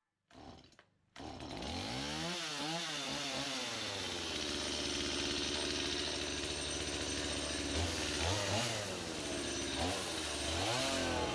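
Chainsaw starting up about a second in and running, its engine revved up and down several times and blipped again near the end.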